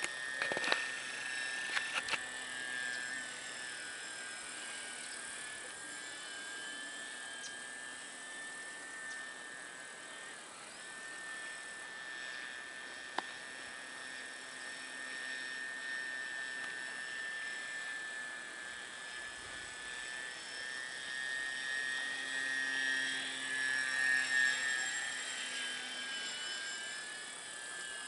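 Radio-controlled Piper trainer model airplane in flight: the steady high whine of its motor and propeller, drifting slightly in pitch and growing louder for a few seconds near the end as the plane passes closer. A few sharp clicks sound in the first two seconds.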